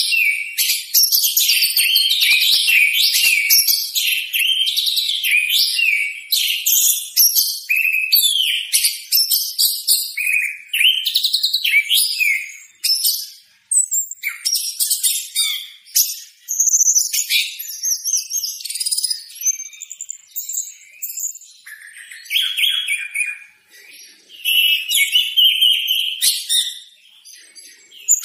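Orange-headed thrush singing a loud, fast, varied song of whistles and trills, the phrases broken by a few short pauses.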